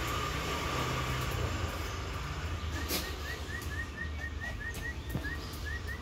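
A bird repeating a short, rising chirp about five times a second, starting about three seconds in, over a steady low rumble of background noise.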